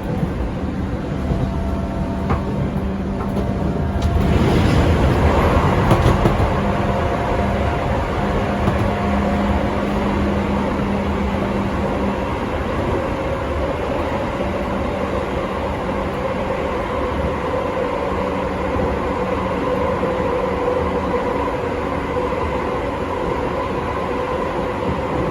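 JR 205 series 500 subseries electric train heard from inside its motor car while running: a steady rumble of wheels on rail with a constant whine of the traction motors and gears. About four seconds in the noise swells into a louder rush for a couple of seconds before settling back.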